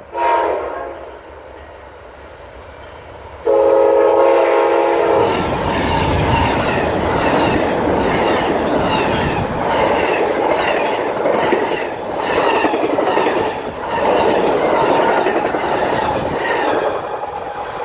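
Amtrak GE P42DC diesel locomotive horn sounding a short blast, then a second blast about three and a half seconds in. The train then passes close by, with wheels clicking rhythmically over the rail joints.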